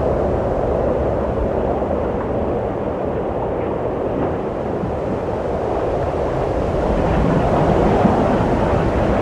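Wind blowing steadily, a low rushing that swells a little about three-quarters of the way through.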